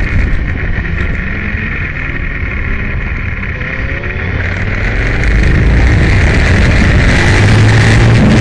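Aprilia Tuono motorcycle engine heard with heavy wind noise, dropping off as the bike slows. About four seconds in the revs rise and the engine gets louder as it accelerates hard again.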